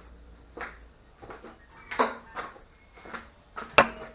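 Scattered light metal knocks and clanks on a steel mini excavator hitch and pin, ending in a ringing hammer blow on steel near the end, as the pin is driven out.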